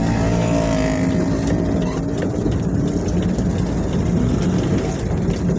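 Truck engine running steadily, giving a low, even drone.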